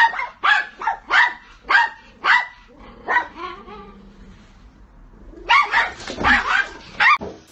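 A dog barking in short yaps, about two or three a second for roughly three seconds, then after a pause a faster, denser run of barking near the end.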